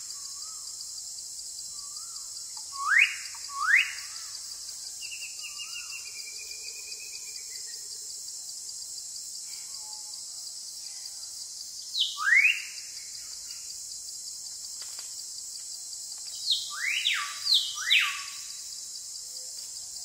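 Bird calls over a steady high insect drone: loud, quick sweeping calls in pairs about three seconds in and again about twelve seconds in, a short twittering trill a few seconds later, and a cluster of four calls near the end.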